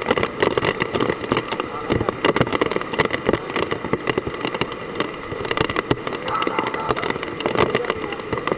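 Hard typhoon rain falling heavily, a dense, loud crackle of countless drops striking.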